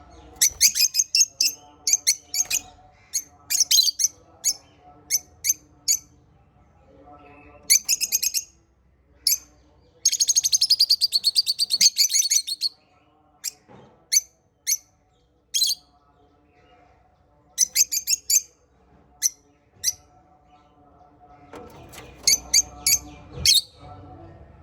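Small pet parrots chirping: short, sharp, high chirps in quick clusters, with a fast unbroken run of chatter lasting about two and a half seconds near the middle.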